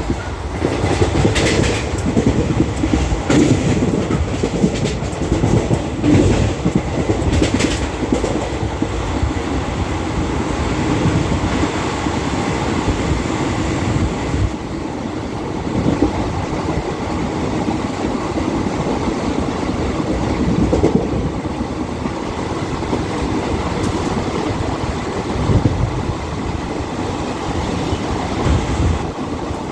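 Moving train's wheels rumbling and clacking over the rails as it crosses from one track to another through the points, with sharp clacks in roughly the first eight seconds.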